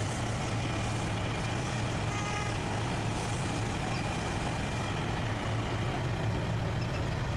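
Heavy truck engine running steadily with a low, even hum.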